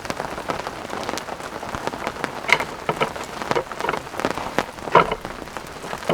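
Steady rain falling, a dense patter of drops, with a few heavier drops striking louder about halfway through and again near the end.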